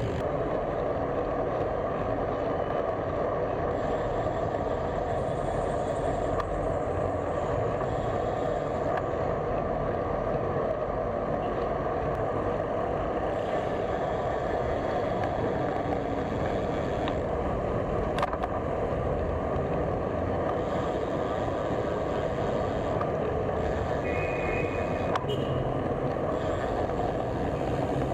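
Steady road-traffic noise heard from a bicycle riding along a road, an even rush of passing vehicles and tyre noise. Two faint clicks come through, one about two-thirds of the way in and one near the end.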